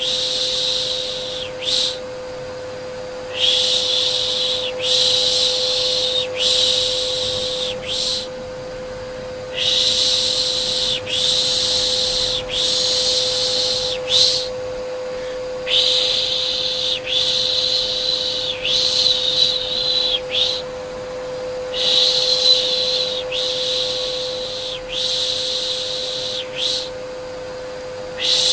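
Rhythmic 'shh' shushing sounds for soothing a baby, each about a second and a half long, coming in groups of three or four with a short pause between groups, over the steady hum of a vacuum cleaner.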